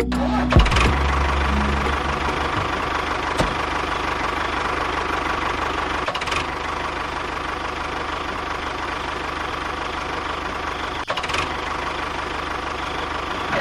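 A small motor running steadily at an even speed, with a steady whine and a few light clicks.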